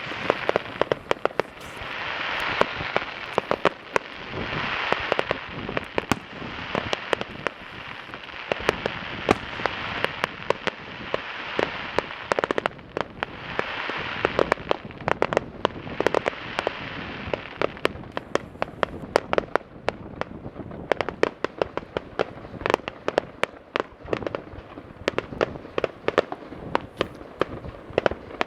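Aerial fireworks display: a dense, irregular run of sharp bangs and cracks, with waves of crackling hiss swelling up a few times, the longest a little past the middle.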